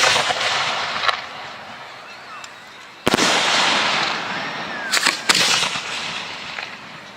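Professional display fireworks going off: a bang about a second in, a bigger one about three seconds in, and two more close together around five seconds in, each trailed by a long fading crackling hiss.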